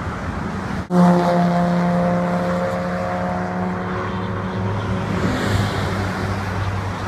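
Motor vehicle engine running with a steady hum over road noise; the hum comes in strongly about a second in and fades out a few seconds later.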